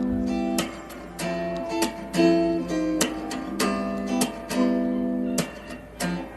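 Background music: acoustic guitar strumming chords in a relaxed, even rhythm.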